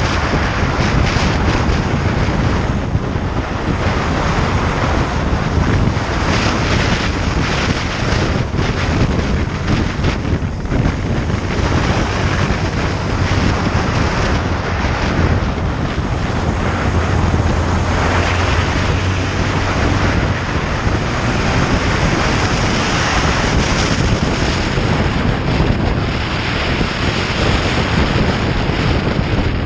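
Wind rushing over the microphone of a moving motorcycle, with the engine running underneath; a low engine hum comes up stronger a little past halfway.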